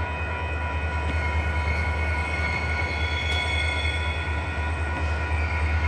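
Freight train running by, with a steady low rumble and several thin, steady high-pitched squealing tones above it, typical of steel wheels squealing on the rails.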